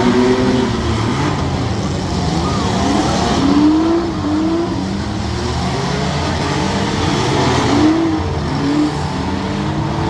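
Several compact cars' engines running and revving together in a demolition derby, with short rising revs over a dense, loud rumble.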